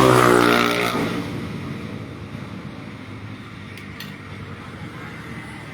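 A motor vehicle's engine dies away about a second in, leaving a steady rushing noise like wind on the microphone.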